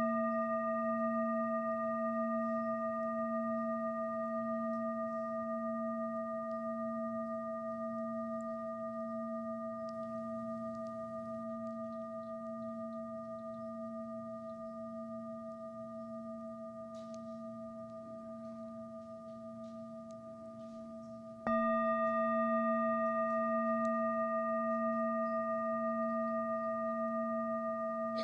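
A singing bowl rings on after being struck, its several overtones slowly fading and its low hum wavering, and is struck again about three quarters of the way through, ringing out anew.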